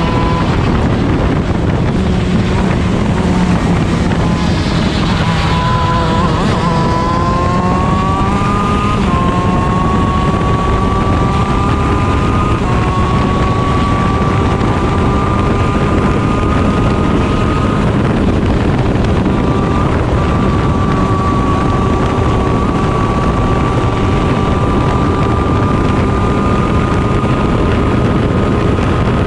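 Stock Honda two-stroke 125 cc engine of a shifter kart at racing speed, heard onboard with heavy wind on the microphone. The revs drop about five seconds in as the kart slows, then climb through upshifts at about nine and thirteen seconds and hold near the top, still slowly rising, for the rest.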